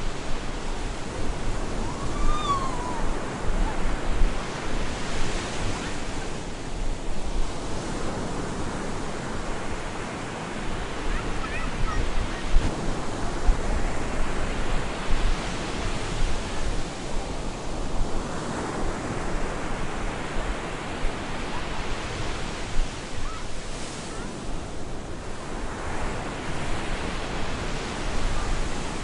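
Stormy sea surf breaking on a beach, waves surging and washing back in swells a few seconds apart, with wind. A brief faint chirp is heard about two seconds in.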